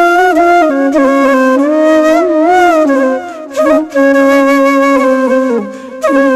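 A solo flute playing a slow, ornamented melody with slides between notes. The melody breaks briefly twice, about halfway through and near the end.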